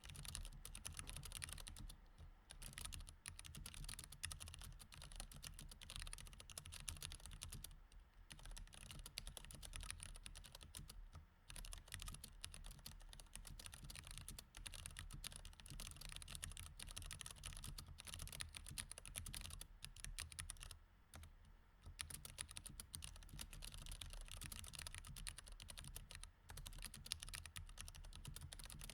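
Continuous fast typing on a mechanical keyboard with Cherry MX Red linear switches: a dense run of key clicks, broken by a few short pauses, over a faint low hum.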